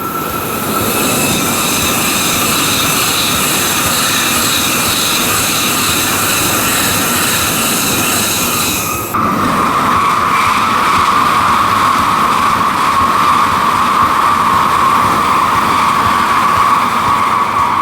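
Tokaido Shinkansen N700-series bullet train passing at speed: a loud, steady rush with a high whine. About halfway through, the whine drops suddenly in pitch.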